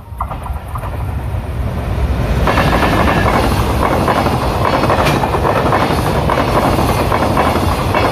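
Container freight train hauled by an EF510 electric locomotive passing at speed. It grows louder over the first two seconds or so as the train comes in, then holds as a steady loud rush of wheels and wagons with repeated clicking from the wheels on the rails.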